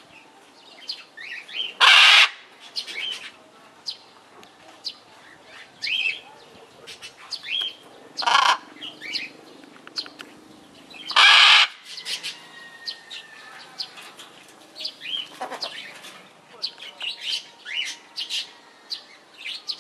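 Small birds chirping and calling throughout, with three loud, harsh squawks about 2, 8 and 11 seconds in, typical of a blue-and-yellow macaw.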